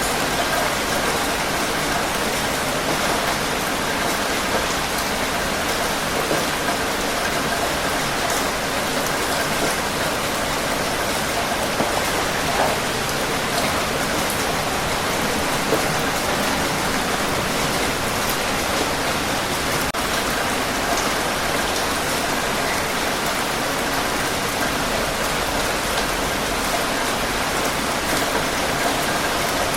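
Steady rain falling and pattering on a surface, an even wash of sound with scattered individual drops.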